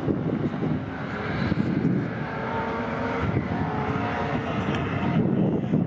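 Historic racing touring cars passing at speed, engines running hard, with one car's engine note standing out in the middle seconds.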